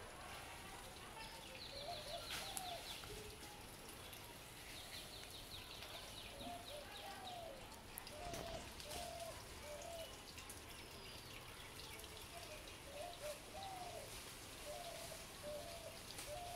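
Birds calling in the background: phrases of short, rising-and-falling notes, repeated in three groups, and twice a fast, high chattering trill. All of it is faint.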